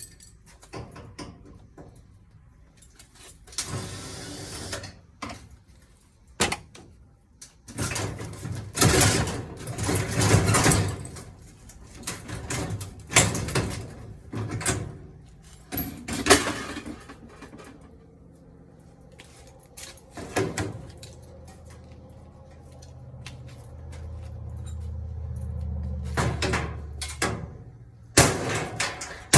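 Irregular metal clanks, knocks and scrapes from a washing machine's metal panels and parts being worked loose with hand tools, with a low rumble building up and fading near the end.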